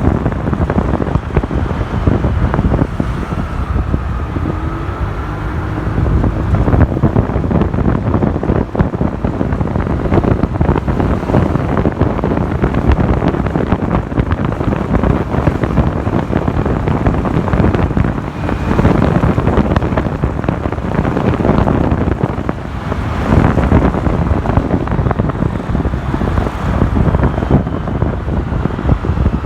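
Wind buffeting the microphone of a camera on a moving motorcycle, with the motorcycle's engine and road traffic underneath; a faint rising engine note comes through a few seconds in.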